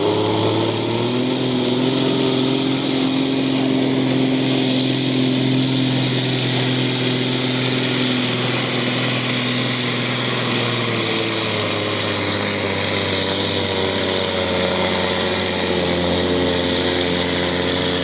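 Tractor-pull tractor's engine at high revs under full load, pulling the brake sled, with a steady pitch that sags slightly about two-thirds of the way through as the load builds.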